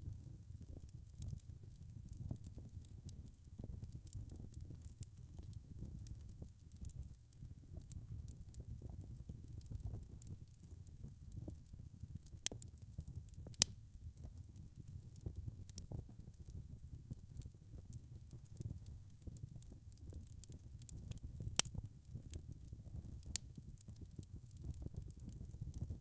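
Wood fire burning with a steady low rumble and constant light crackling, punctuated by a few sharp pops, the loudest about halfway through and again near the end.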